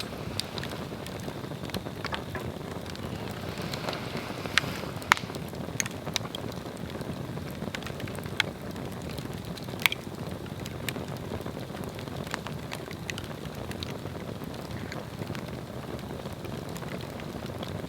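A Swedish torch, an upright log slit into sections, burning: a steady rush of flame with scattered crackles and sharp pops. The loudest pops come about five and ten seconds in.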